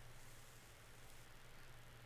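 Faint, steady white-noise hiss with a low, steady hum underneath.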